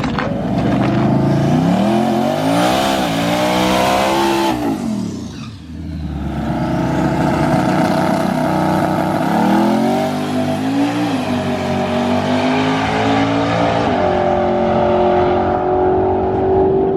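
High-performance car engine accelerating hard on a drag run. The pitch climbs and drops back at each gear change, dips briefly about five seconds in, then holds steady high revs.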